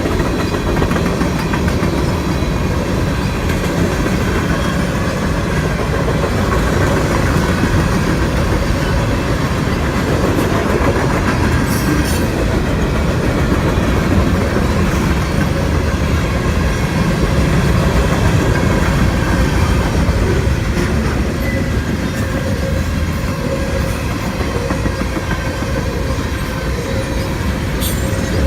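Train running along the track: steady, loud wheel-and-rail noise with a clickety-clack, and a sharp click or two.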